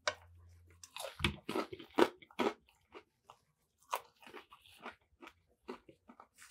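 Close-up chewing of a crunchy fried Nashville hot chicken sandwich: a run of irregular crisp crunches and mouth clicks, loudest about two seconds in.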